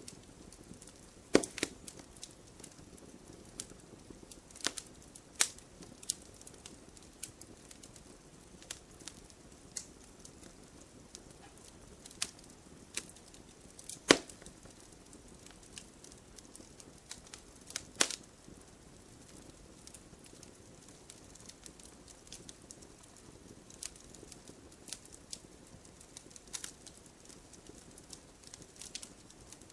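Wood fire crackling: irregular sharp pops and snaps over a soft steady hiss, with a few much louder pops, the strongest about fourteen seconds in.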